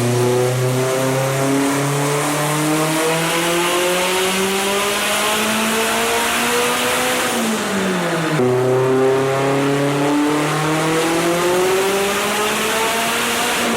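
Turbocharged car engine at full throttle on a chassis dyno, revving up steadily through a power pull. About seven seconds in the pitch drops sharply, then climbs again.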